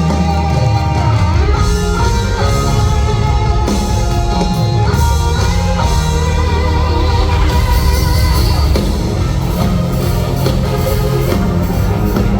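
Instrumental rock music: a guitar-led melody over bass and drums.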